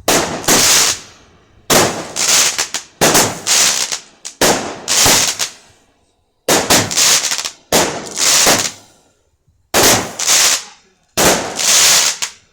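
Fireworks going off in a rapid series of loud bangs, coming in clusters about every second, each with a short crackling tail; it stops suddenly near the end.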